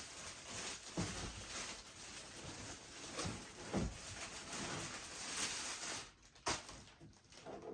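Packaging and items being handled during an unboxing: rustling with a few light knocks and thuds, quieter near the end.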